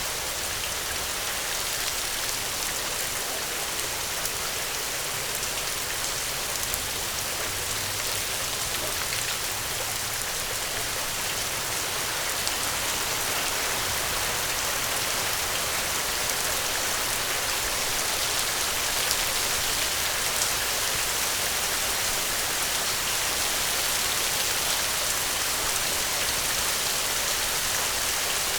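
Steady rain falling, a continuous hiss with scattered drops pattering on a surface.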